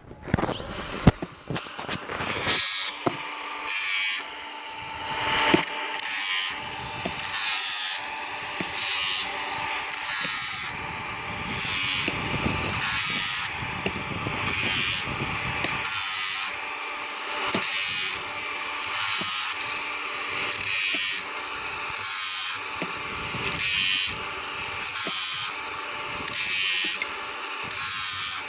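Small angle grinder running steadily, with a short burst of grinding about every second and a half as the disc is touched to the chainsaw chain's teeth one after another to sharpen them.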